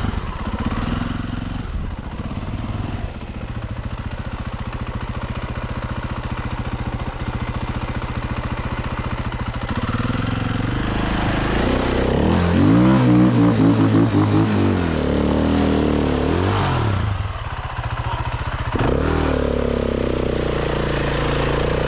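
Dirt bike engine running at a low steady speed with an even firing beat, then revved repeatedly from about ten seconds in, the pitch climbing and falling, dropping briefly before another rev near the end. The bike is bogged in sand at a creek crossing.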